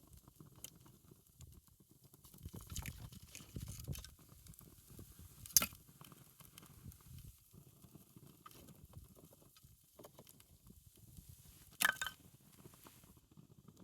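Wood fire crackling with scattered small ticks, and two sharp pops, the louder about five and a half seconds in and another about twelve seconds in.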